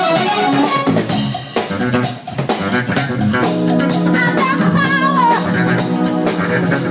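Live funk band playing without vocals, the drum kit prominent with snare rimshots and bass drum under the bass; from about four seconds in a lead line wavers and bends in pitch above them.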